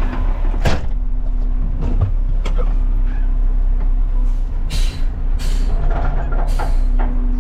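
Front-load garbage truck running with a steady engine drone, broken by several short hisses of air as the truck works its forks and controls.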